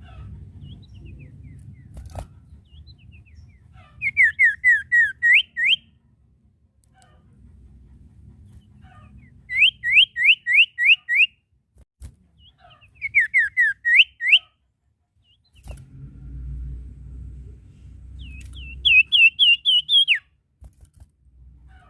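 A sirtu songbird singing in four bursts of quick whistled notes, each burst six to eight notes run together over about a second and a half, repeated every four or five seconds. A faint low rumble sits beneath between the bursts.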